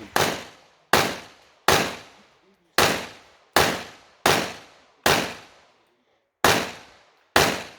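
Bul SAS II Open-division pistol fired nine times in a stage run, the shots coming under a second apart, with a longer pause of about a second and a half near the middle of the string.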